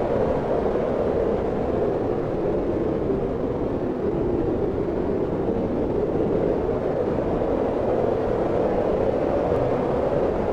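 Steady wind: a continuous low rushing that swells and eases slightly, with no sudden gusts.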